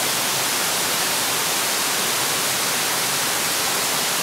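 Aotare Falls (青垂の滝), a mountain waterfall, rushing in a loud, steady, even roar of falling water.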